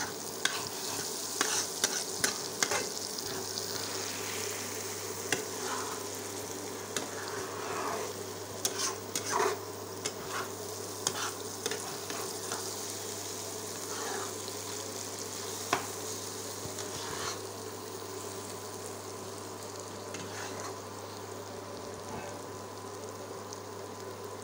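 Grated potato and egg sizzling as they fry in a wok, with a spatula scraping and clacking against the pan as the mix is stirred. The clacks die away after about 17 seconds, leaving the steady sizzle.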